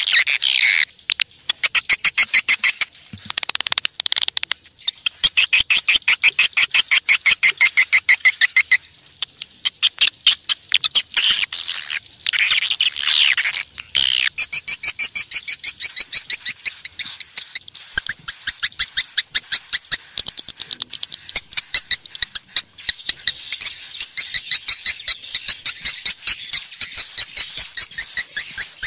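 Swiftlets twittering: a rapid, dense stream of high chirps and clicking pulses in repeated bouts. This is a swiftlet calling sound of the kind played to lure birds to a nest house.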